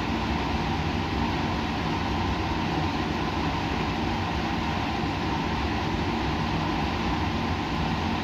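Steady, unchanging rushing noise with a faint low hum, the continuous background of machinery or airflow in a lab.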